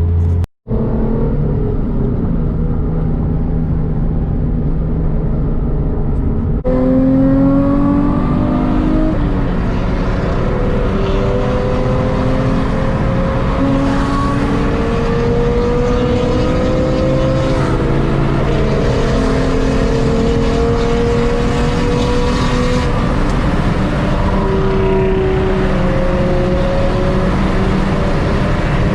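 Car engine running under load, its pitch climbing as it revs up and then dropping back again and again as it shifts gears, over steady road noise. The sound breaks off briefly just after the start and changes abruptly about six and a half seconds in.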